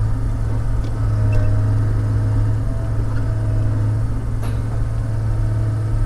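A log loader's diesel engine running steadily with a low drone, with a few faint light clicks.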